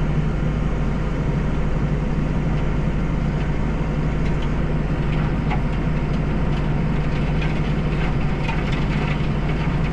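Deutz-Fahr 5120G tractor's diesel engine running steadily under load, driving its dual-auger snowblower through heavy wet snow.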